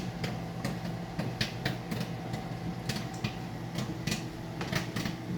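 Microwave popcorn popping inside a running microwave oven: irregular sharp pops, about two a second, over the oven's steady hum.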